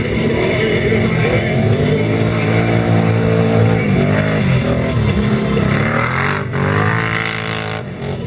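Quad-bike (ATV) engines running at racing speed, their pitch rising and falling as they rev up and ease off.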